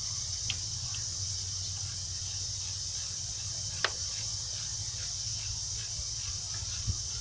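A few sharp metallic clicks and taps, the loudest about four seconds in, from hand work on a brake caliper bolt, over a steady high-pitched drone and a low background rumble.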